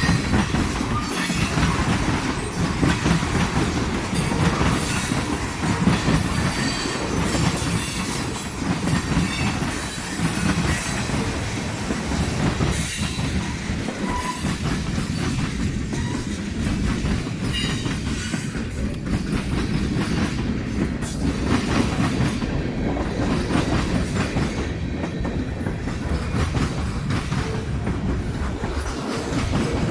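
Train cars rolling past at close range, wheels clattering steadily over the rail joints, with a few brief squeals of wheel against rail.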